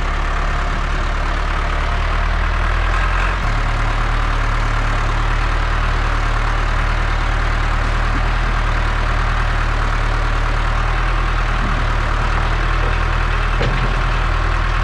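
A diesel engine running steadily at low speed, with a slight change in its tone about three and a half seconds in.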